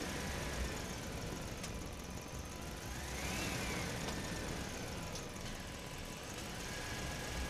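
A steady low engine-like hum with a hiss. Over it, a faint whistling tone rises and falls slowly about three and a half seconds in, and settles into a level tone near the end.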